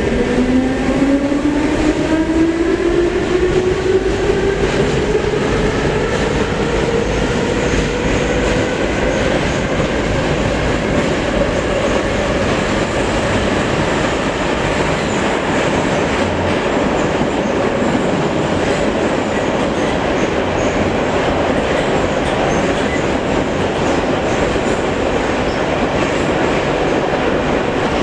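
Metro train running between stations: the traction motors' whine rises in pitch over the first ten seconds or so as the train picks up speed, then levels off into steady running noise with wheel rumble on the rails.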